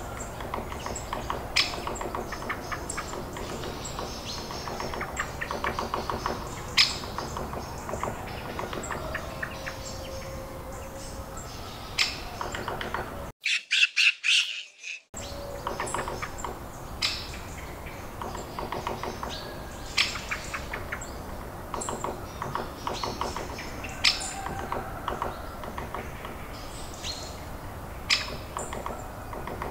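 Wild birds calling throughout: many short sharp chirps and squawks with quick rattling trills. There is a brief, louder burst of high calls about halfway through.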